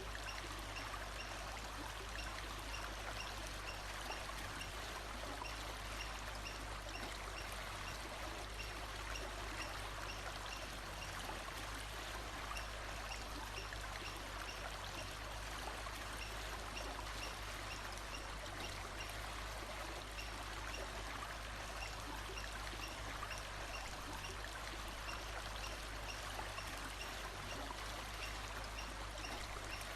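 Steady rushing of flowing water, like a stream, with a faint high pip repeated about twice a second in stretches over it.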